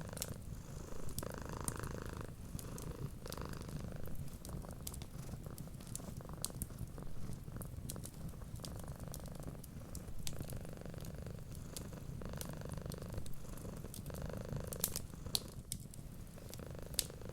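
Domestic cat purring steadily, a low rumble that swells and fades in slow cycles with its breathing. Thin, scattered crackles from a fireplace fire run over it.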